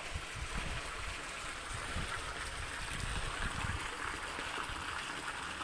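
Steady rain falling, with water running and trickling, and irregular low rumbling bumps underneath.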